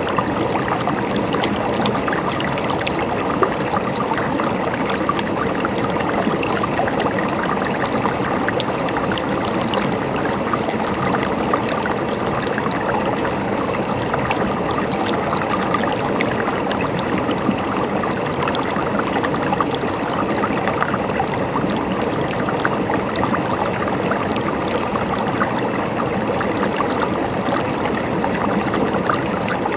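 A stream flowing over stones, a steady splashing and trickling of running water.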